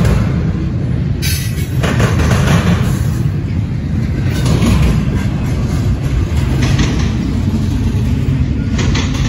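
Double-stack intermodal freight train's well cars rolling past close by: a steady, loud rumble of steel wheels on rail.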